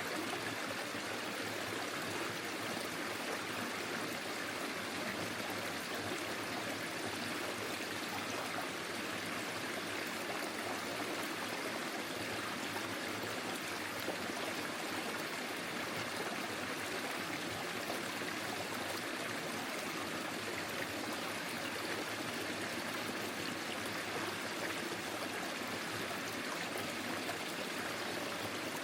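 Small forest stream flowing and trickling over stones, a steady even rush of water.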